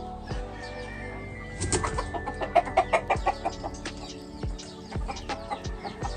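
Gamefowl clucking: a fast run of loud clucks about two seconds in, then scattered single clucks, over steady background music.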